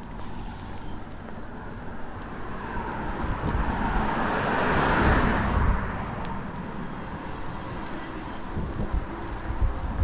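A car passing by, its tyre and road noise swelling to a peak about halfway and then fading away. A low wind rumble on the microphone runs underneath.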